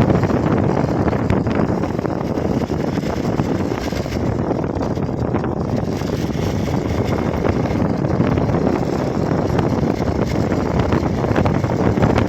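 Steady wind rushing over the microphone on a moving Hero XPulse motorcycle, with engine and road noise running beneath it.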